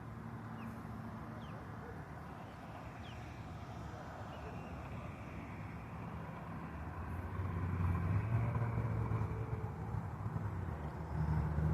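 A motor vehicle's engine hums steadily as it passes, growing louder about seven seconds in and easing off near the end. A few faint chirps sound in the first seconds.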